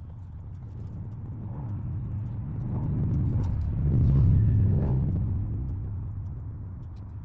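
A low rumble from a passing vehicle, swelling steadily to its loudest about four seconds in and then fading away.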